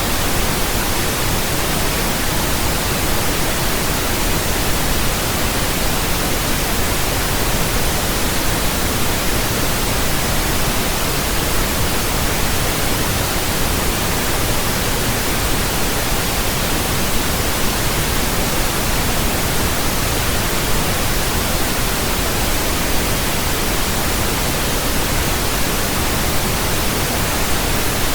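Steady synthetic pink noise: an even, unchanging hiss with a deeper, softer tone than white noise.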